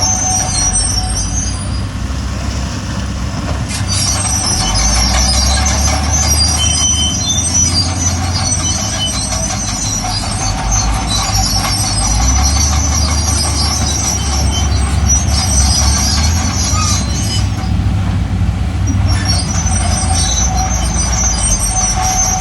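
Bulldozer running under load, its diesel engine giving a heavy low rumble that swells about four seconds in and again around twelve seconds, with the steel tracks squealing steadily over it.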